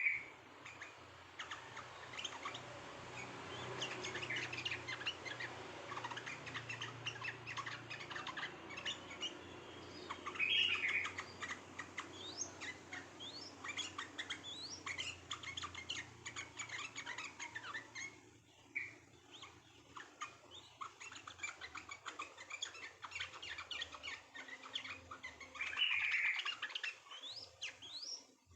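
Dense chorus of many small songbirds chirping rapidly and overlapping, with louder bursts of calling about ten seconds in and again near the end, over a faint low steady hum.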